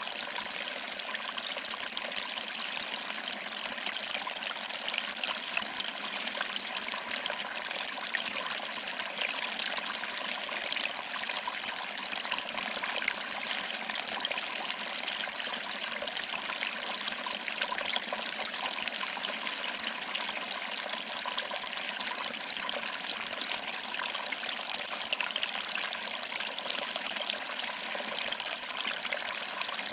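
Small waterfall: water trickling and splashing over rocks into a pool, a steady even rush with no low rumble.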